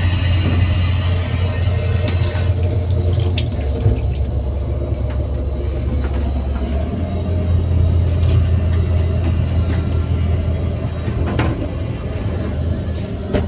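Scania Irizar i5 coach riding along, a steady low engine and road rumble inside the bus. The low drone drops in pitch about three seconds in and comes back up about seven seconds in.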